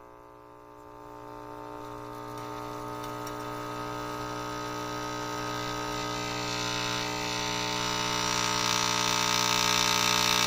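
A vintage Sears Silvertone Model 9001 tube radio giving out a steady mains hum through its speaker as it warms up on reduced voltage, growing steadily louder with rising hiss. The hum points to the radio's failing filter electrolytic capacitor, which is to be replaced next.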